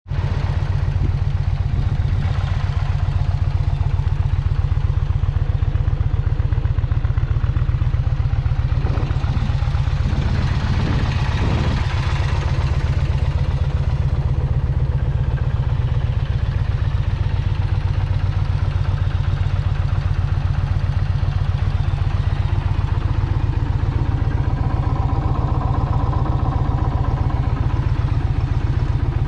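2024 Indian Challenger's liquid-cooled V-twin engine idling steadily.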